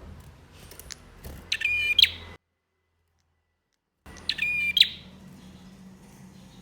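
Male prenjak (prinia) singing: two short, loud bursts of rapid chattering trills, about two and a half seconds apart. The audio cuts to dead silence between them. A faint low hum and a few thin high ticks sit underneath.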